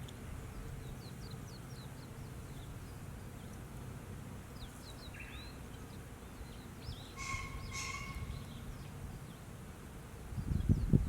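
Outdoor ambience: small birds chirping faintly again and again over a steady low rumble. Two louder, steady-pitched calls come about seven and eight seconds in, and there are low rumbling bursts near the end.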